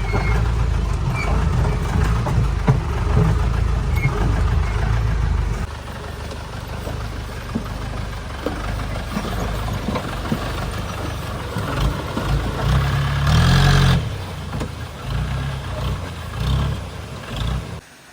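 Mahindra 4x4 jeep running over a rough off-road track, its engine rumbling with scattered knocks and rattles. The engine sound drops about a third of the way in and swells briefly near the end.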